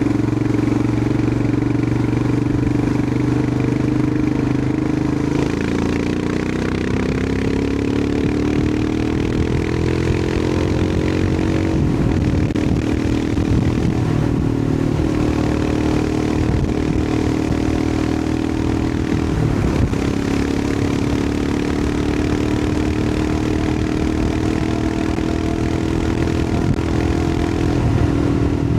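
Royal Enfield Himalayan 411's air-cooled single-cylinder engine running under way. Its note climbs steadily from about five seconds in as the bike accelerates, wavers and dips with throttle changes around the middle, then holds fairly even.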